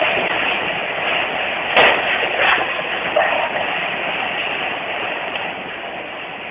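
Continuous rumble of an earthquake, with a sharp bang about two seconds in and two smaller knocks just after.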